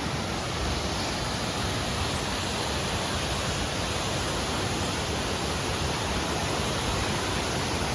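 Steady rushing of falling water from a mountain creek or waterfall: an even, unbroken hiss.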